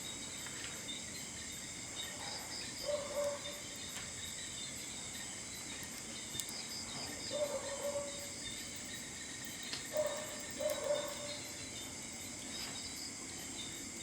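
Steady chorus of crickets and other insects chirping, with a few faint short calls rising above it about three, seven and ten seconds in.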